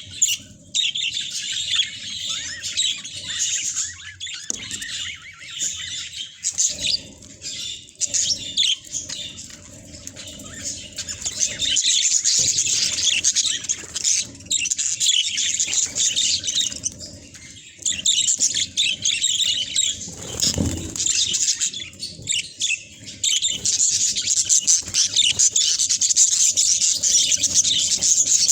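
Budgerigars chattering: a continuous dense twittering of many quick chirps, growing louder about halfway through and again near the end.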